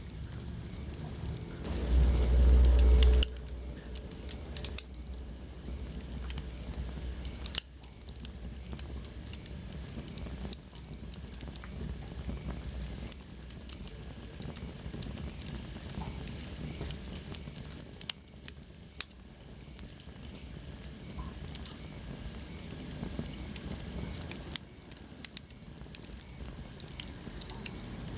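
Wood fire crackling, with scattered sharp pops over a steady low hiss. A loud low rumble comes about two seconds in and lasts about a second, and a faint high whistle slowly falls in pitch about two-thirds of the way through.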